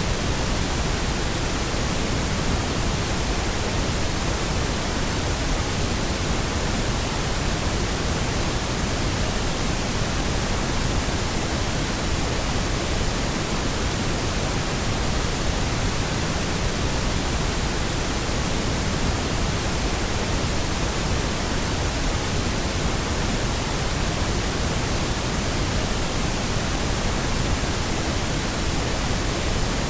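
Steady pink noise: an even, unchanging hiss across the whole range of pitch, with no tones or breaks.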